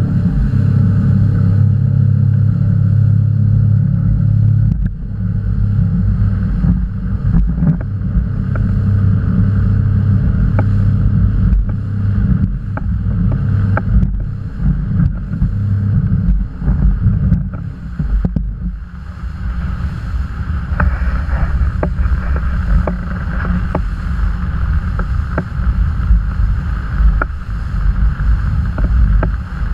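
Motorboat engine running under way, with wind on the microphone and repeated knocks of the hull on the waves.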